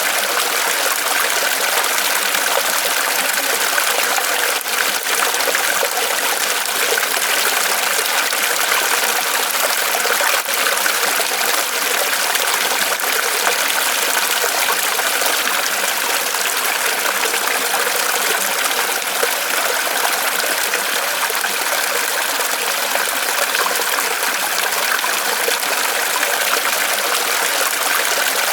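Small waterfall trickling steadily from a tree trunk, an even splashing of falling water.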